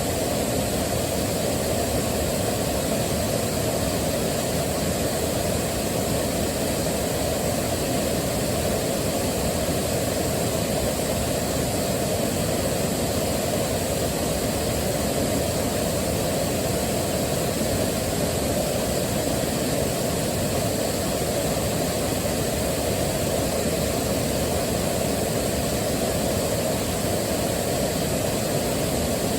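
Waterfall: falling water rushing in an even, unbroken wash that does not change.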